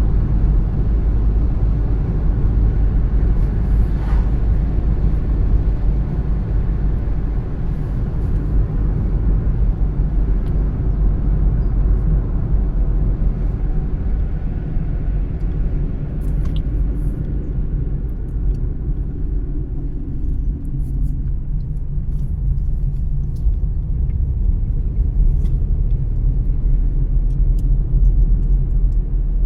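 A car driving along a road: a steady low rumble of tyres and engine, with a few faint ticks.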